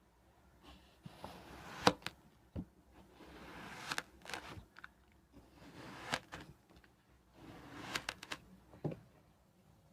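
Kinetic sand being cut, in about four slow strokes: each a soft crunching scrape that builds and ends in sharp clicks, the loudest about two seconds in.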